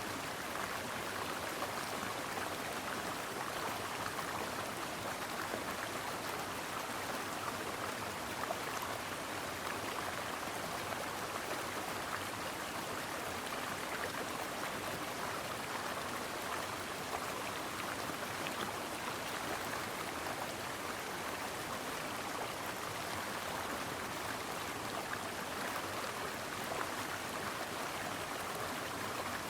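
A brook flowing steadily: an even rush of running water with no breaks.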